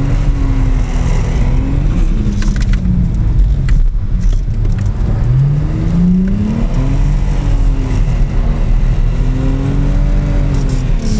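Car engine heard from inside the cabin while drifting on a wet track, the revs rising and falling, with a long climb in pitch about five seconds in.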